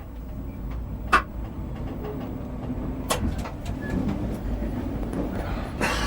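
Cab interior of a Merseyrail Class 508 electric train, a steady low rumble. One sharp click comes about a second in, with more knocks later.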